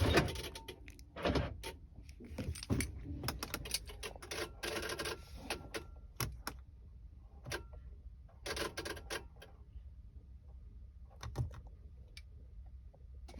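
Irregular clicks, knocks and jingling rattles of keys and small hard parts being handled in a truck cab, with no engine running. A faint short tone sounds briefly near the middle.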